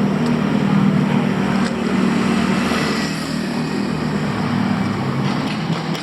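Street traffic: a motor vehicle's engine running close by with a steady hum that fades away after about three seconds, over continuous city noise.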